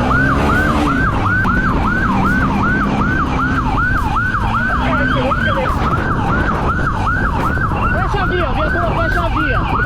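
Police siren in a fast yelp, sweeping up and down about three times a second, over a steady engine and road rumble from the pursuing vehicle.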